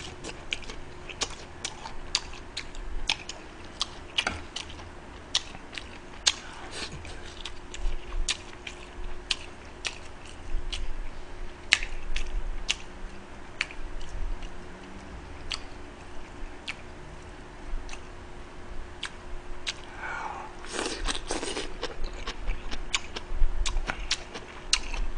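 A man chewing crunchy food close to a microphone: irregular sharp crunches and clicks of mouthfuls being bitten and chewed, with a brief louder sound about three-quarters of the way through.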